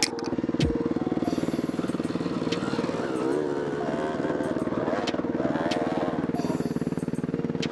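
Dirt bike engine running at a steady, unchanging pitch, like an idle, with scattered sharp clicks over it. A wavering higher sound comes in over the engine about three seconds in and fades by about six seconds.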